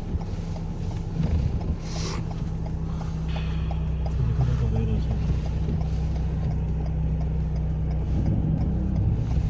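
A car driving slowly, heard from inside the cabin: a steady low engine and road drone, with a faint regular ticking through the middle and a short click about two seconds in.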